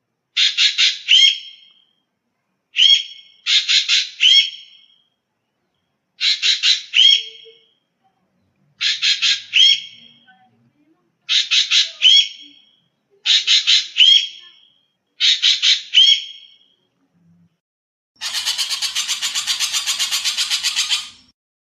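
Common green magpie calling: eight short phrases of three or four sharp, squawking notes, each ending in a hooked note and repeated every two seconds or so, then a harsh rattle of about three seconds, about six pulses a second, near the end.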